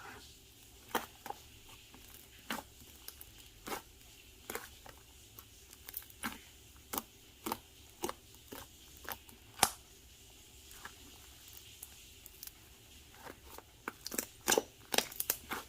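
Slime being pressed and squished by hand, giving sharp little clicking pops about one every half second to second. The pops come faster and louder near the end.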